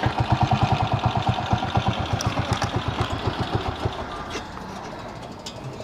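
Single-cylinder four-stroke engine of a 1999 Honda CG Titan motorcycle running at low revs with an even low putter. The putter weakens and fades out about four seconds in. Its valve clearances have just been adjusted after a loose exhaust valve.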